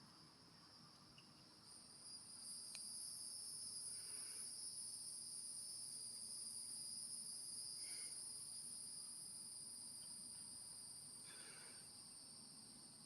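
Insects shrilling steadily: a continuous high buzz at two pitches, the higher one swelling in about two seconds in and slowly fading toward the end.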